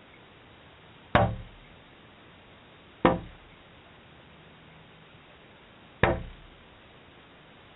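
Three sharp knocks, the second about two seconds after the first and the third about three seconds later, each dying away quickly.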